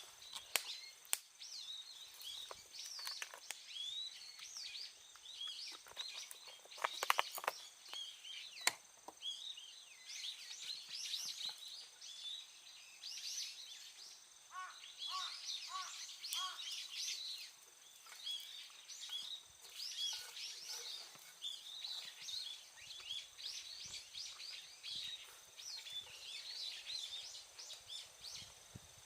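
Small birds chirping and twittering continuously, with a short run of repeated lower notes about halfway through. A few sharp clicks sound in the first third.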